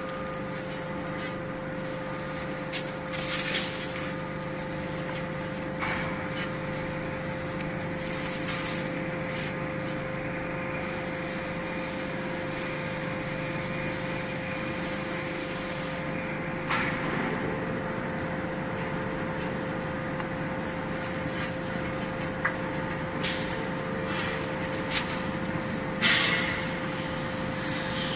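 Vertical baler's hydraulic power unit running steadily, a constant humming tone, with a few short knocks and brief hisses from the machine along the way.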